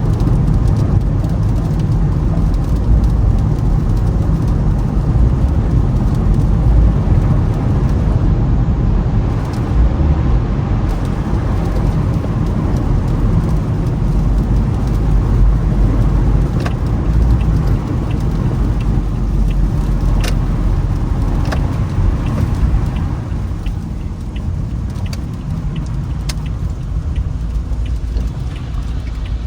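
Toyota Camry driving on a snowy, icy road, heard from inside the cabin: a steady low rumble of tyre and road noise, with a few light ticks in the second half.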